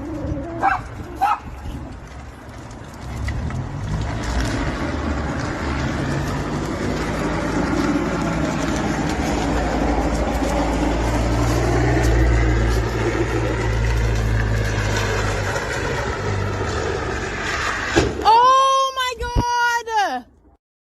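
A vehicle's steady low road and engine rumble, as heard in a dashcam-style clip. Near the end come several loud, held, pitched cries or calls, each rising at the start and falling at the end, and then the sound cuts off.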